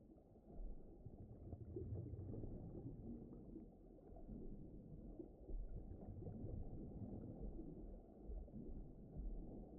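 Low, muffled deep-ocean underwater ambience: a dark, rumbling wash of noise with all of its energy in the low end, gently swelling and easing.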